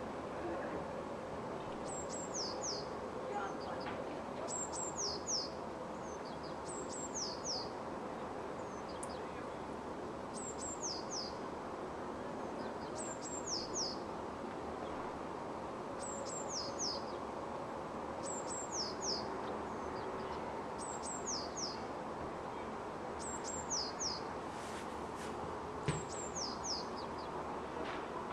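A bird repeats a short phrase of quick, high, falling notes about every two seconds, over a steady background hum. There is a single sharp click near the end.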